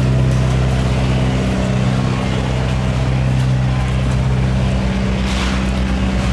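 Boat engine running steadily with a low, even hum, over the hiss of water and wind. About five seconds in, the hiss briefly rises.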